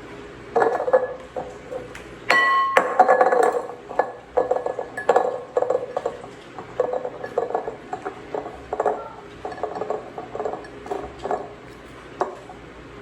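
Glass jars clinking and knocking as they are handled and packed. One ringing glass strike comes about two seconds in, followed by a run of irregular small knocks and taps.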